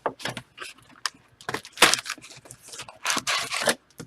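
Cards and card packaging being handled: short, irregular rustles and scrapes, the loudest a little under two seconds in and again past three seconds.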